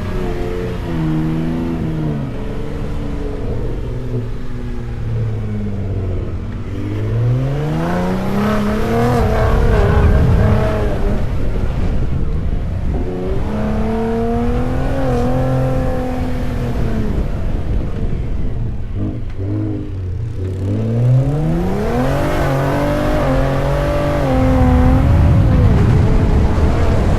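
Ford F-150 Raptor's twin-turbo V6 engine revving up and down as the truck drives over sand dunes. Its pitch climbs steeply three times, around 7, 12 and 21 seconds in, and falls back between, over a steady low rumble.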